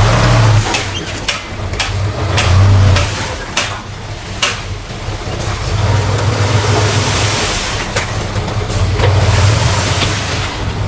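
Diesel engines of heavy earthmoving machinery working, a low rumble that swells and eases several times, with scattered sharp clanks and knocks.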